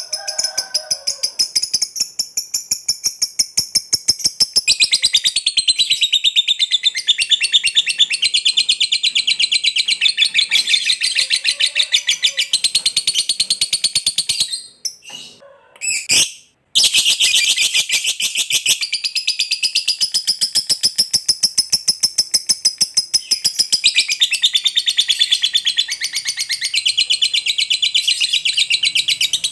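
Lovebird giving its long 'ngekek' call: a fast, unbroken chattering trill of high, shrill notes. It breaks off briefly about halfway through, then carries on.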